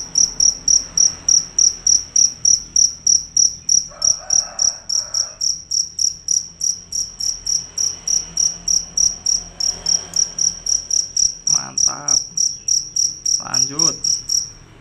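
A cricket chirping loudly and without a break in a high, even-pitched pulse, about four chirps a second. It stops abruptly at the very end.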